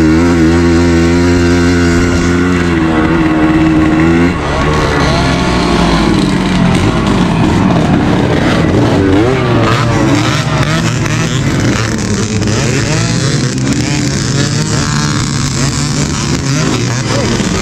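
Suzuki AX 100's single-cylinder two-stroke engine at full throttle. It holds a steady high note for about four seconds, drops briefly, then keeps rising and falling in pitch as the throttle comes on and off.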